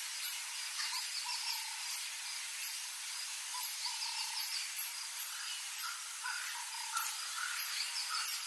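Birds calling in the bush: a very high, sharp chirp repeating about twice a second over softer, varied chirps and whistles.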